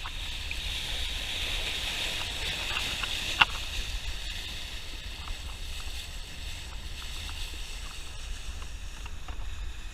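Water rushing along the hull of a sailing yacht under way, a steady hiss over a low rumble, with a single sharp knock about three and a half seconds in.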